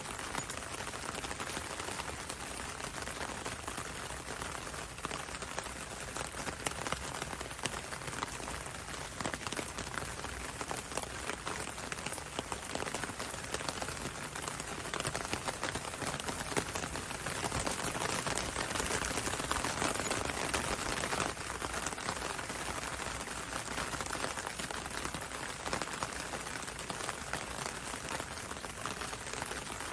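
Steady rain with many fine drop ticks, pattering on a window and falling on the road, a little heavier about two-thirds of the way through.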